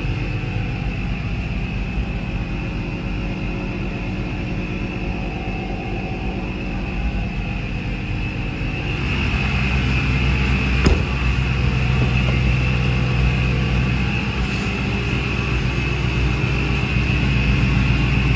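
A 1996 Ford Mustang GT's 4.6-litre V8 running steadily through its reworked exhaust. It gets somewhat louder about halfway through, with a single short click shortly after.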